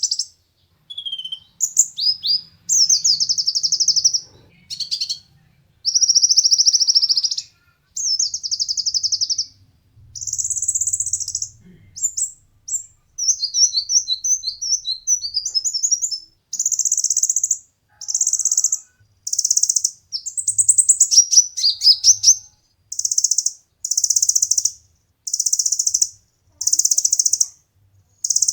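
A konin (kolibri ninja, the brown-throated sunbird) singing loud, high, rapid trilled phrases, each about one to two seconds long with short breaks between. Near the end the phrases come in an even series of about one a second.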